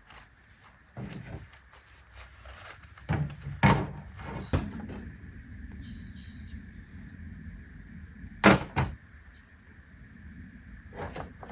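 A handful of knocks and clunks of handled gear, the loudest a little over three seconds in and again about eight and a half seconds in.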